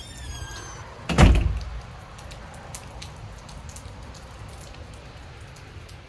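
A door shutting with one heavy thud about a second in, followed by scattered faint ticks.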